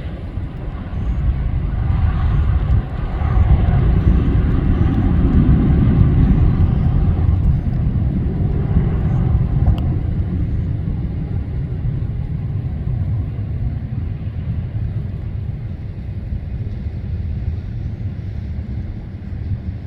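Boeing 737 MAX 8's CFM LEAP-1B turbofan engines as a deep jet rumble that swells to its loudest about five seconds in, then slowly fades as the departing airliner draws away.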